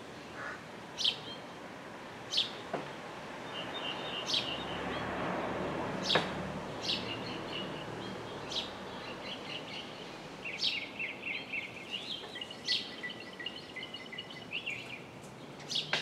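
Songbirds calling: sharp, high chips that fall in pitch, one every second or two, and in the second half a run of quick twittering notes. Under them is a soft steady background noise that swells briefly about midway.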